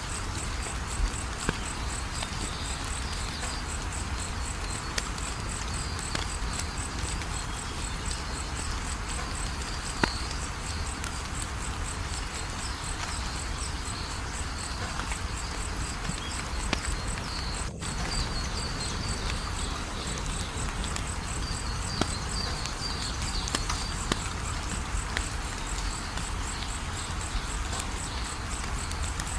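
Wood fire crackling with scattered sharp pops over a steady low rumble, while a cricket trills continuously in a high, evenly pulsed tone, with another insect chirping on and off a little lower.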